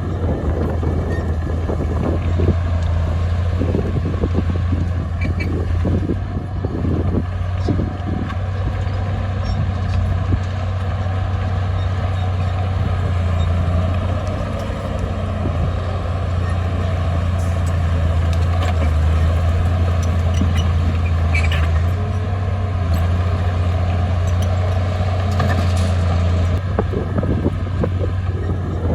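Heavy diesel engine of a bulldozer running steadily with a deep, even hum, with scattered knocks and clanks in the first several seconds.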